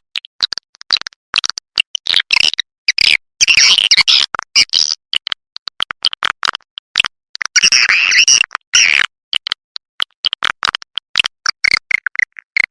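Recorded swiftlet lure call: edible-nest swiftlets' rapid high clicks and chirps, swelling into two dense bursts of twittering about a third and two thirds of the way through, with abrupt silent gaps between calls.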